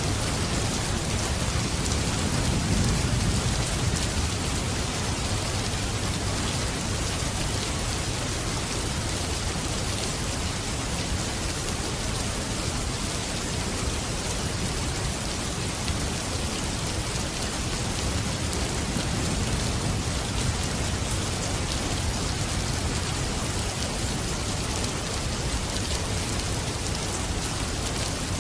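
Steady rain falling, an even hiss with no pauses, with a low rumble in the first few seconds.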